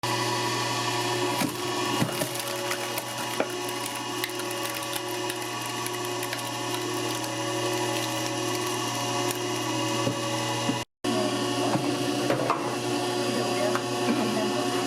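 Steady machine hum with several steady tones, overlaid with scattered clicks and knocks of kitchen work; the sound briefly cuts out about eleven seconds in.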